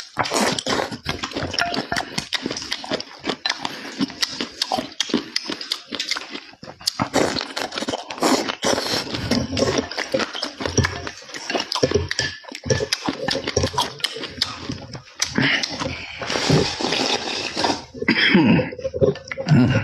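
Loud close-miked eating: wet chewing and lip-smacking, a dense run of quick clicks, with a short pitched sliding sound near the end.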